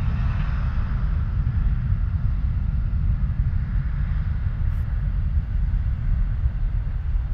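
United Boeing 737-900's CFM56 turbofan engines heard as a steady low rumble as the jet departs after its takeoff clearance.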